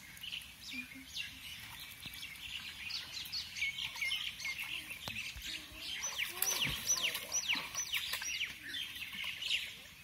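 Wild forest birds calling and chirping, with a quick run of down-slurred whistled notes, a few each second, for a couple of seconds past the middle.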